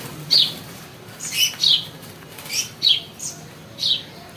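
Birds giving short, sharp chirps, about six in four seconds, each one falling quickly in pitch.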